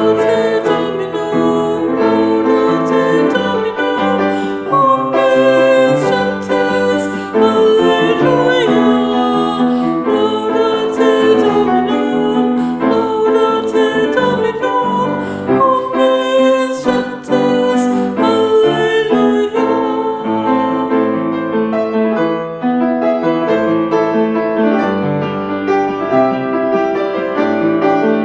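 Taizé chant sung with piano accompaniment. About two-thirds of the way through, the singing drops out and the piano plays on alone.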